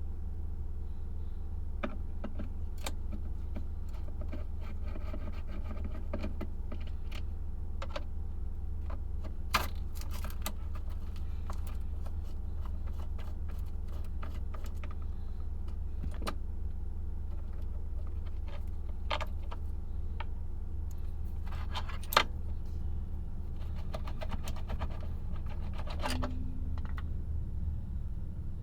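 Small metal tools and parts clinking and tapping at a workbench in scattered bursts, with two sharper clicks, one about ten seconds in and one about twenty-two seconds in, over a steady low hum.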